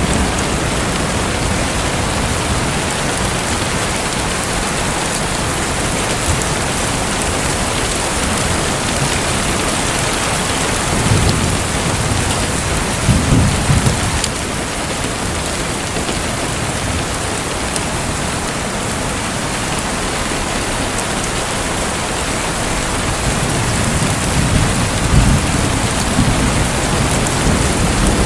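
Steady rushing, splashing water hiss, with deeper rumbling swells about eleven to fourteen seconds in and again near the end.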